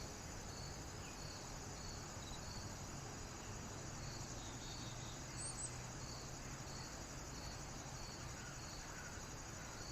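Faint insect chorus: a steady high-pitched trill with a softer chirp repeating at an even pace, about every half second.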